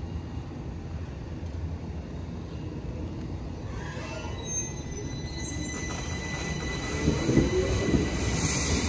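Uetliberg line electric train running on standard-gauge track: a low rumble grows louder, with high-pitched wheel squeal starting about four seconds in and returning, stronger, near the end.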